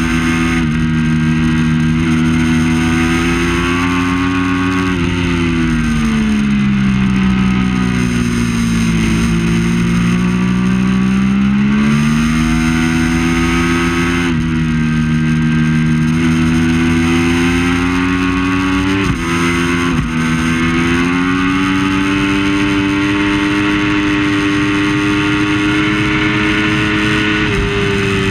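Triumph Daytona 675 inline three-cylinder engine at race pace: the pitch falls for several seconds as the bike slows, then climbs again under acceleration, stepping abruptly at each gear change.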